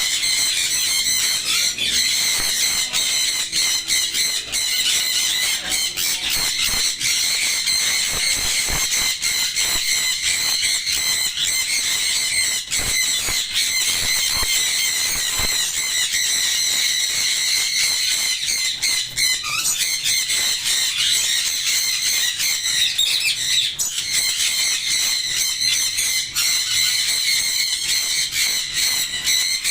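Many parrots screeching and chattering together in a dense, unbroken high-pitched din.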